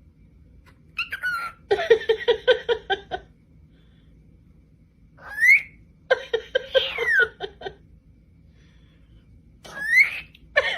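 Pet parrot calling: quick rising whistles and three bursts of rapid pulsed, chattering calls, about six pulses a second, with quiet gaps between.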